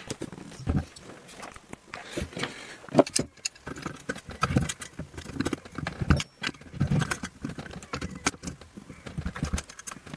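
Irregular metallic clinks, clicks and knocks of hand tools and loose parts as the carburetor is unbolted and pulled off a small two-stroke bicycle engine.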